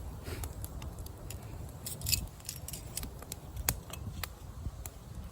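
Wood campfire crackling: scattered sharp pops and clicks at irregular intervals, a few louder than the rest, over a steady low rumble.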